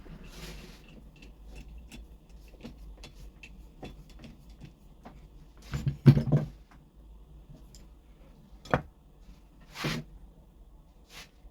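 Small hard objects being handled on a workbench: scattered light clicks, a louder clattering knock about six seconds in, a sharp click near nine seconds and a brief scrape about ten seconds in.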